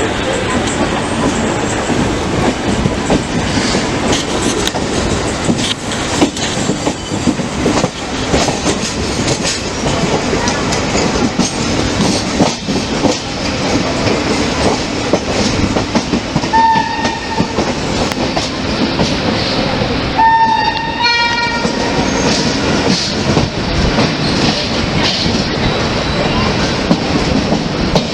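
Express passenger train running along the line: a steady rumble with wheels clicking over rail joints, and short horn blasts about 16 and 20 seconds in.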